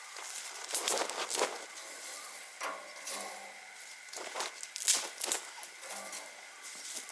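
Irregular sharp snaps and crackles of wood at a campfire, some loud, over a light hiss.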